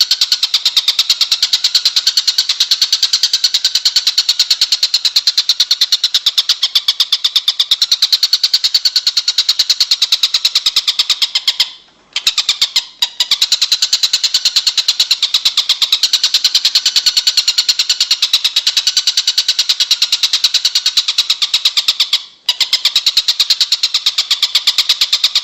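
Songbird masteran recording: a loud, high, rapid buzzing trill of evenly repeated notes that runs on continuously, breaking off briefly about 12 seconds in and again about 22 seconds in.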